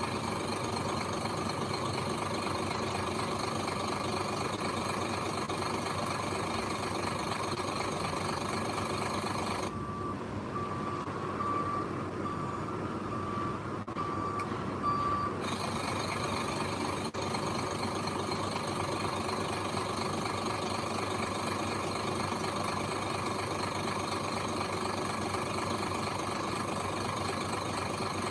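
Heavy diesel construction machinery running steadily. About ten seconds in, a reversing alarm gives a quick series of short beeps at one pitch for about five seconds.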